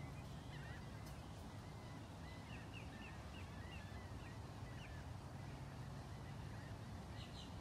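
Birds chirping with many short, high calls over a steady low background rumble.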